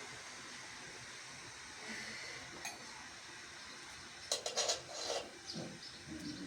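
A few light clicks and knocks over faint background hiss: one about two and a half seconds in, then a quick cluster just past the middle.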